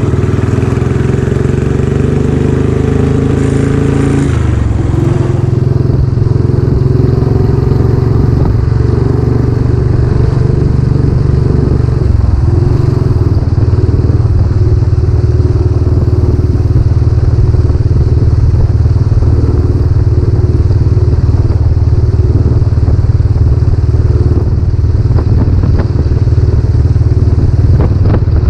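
Royal Enfield Classic 500's air-cooled 499 cc single-cylinder engine running through a newly fitted aftermarket silencer while the bike is ridden. The engine note dips briefly about four seconds in and again about twelve seconds in, then holds steady.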